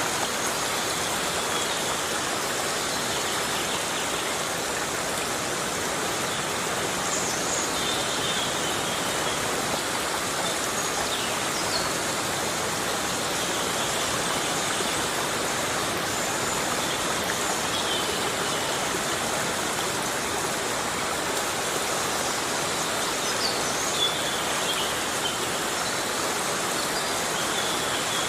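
Heavy rain falling in a rainforest: a steady, even hiss of water, with a few faint high chirps now and then.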